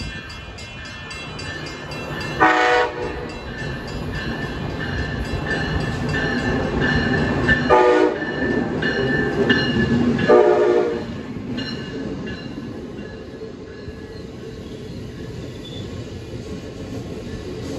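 A passenger train sounds its horn in three short blasts, the last a little longer, over the running noise of the train, which builds and then fades after the last blast.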